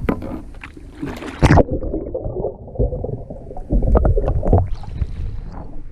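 Water splashing and sloshing as a kayak is rolled over and back up. The sound goes abruptly muffled for about two seconds in the middle, with a loud splash just before, and more splashing follows.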